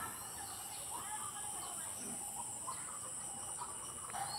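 Faint rural outdoor ambience: a steady high-pitched insect drone with a few faint, scattered bird chirps.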